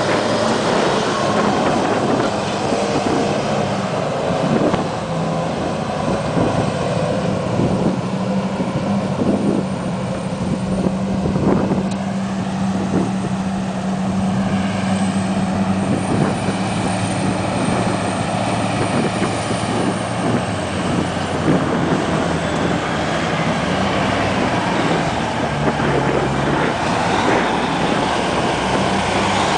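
Diesel engine of a Terex mining haul truck running: a continuous loud drone that shifts a little in pitch, with occasional knocks.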